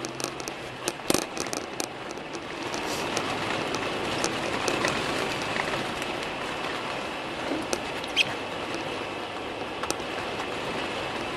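Car driving through deep snow, heard from inside the cabin: a steady hiss and rumble of tyres and engine, with a few scattered clicks and knocks.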